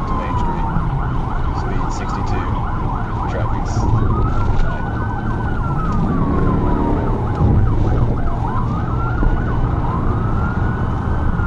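Police car sirens sounding during a high-speed pursuit. A slow wail rises and falls about every four to five seconds, with a faster yelp sweeping rapidly over it through the middle, all over steady engine and road noise.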